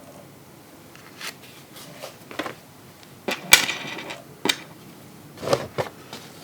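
Hard plastic parts of a Transformers action figure clicking and knocking as the toy is handled, a few separate clicks with a sharper snap about three and a half seconds in.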